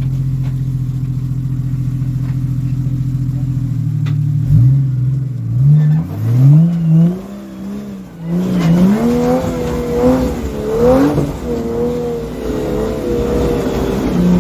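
Four-wheel-drive engine idling steadily, then revved up and down over and over from about four seconds in as it works the vehicle up a slippery rock climb.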